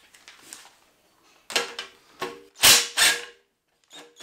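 A few short metallic clatters and rattles from tools working the cover screws on a diesel engine, the loudest near the middle, some with a slight metal ring.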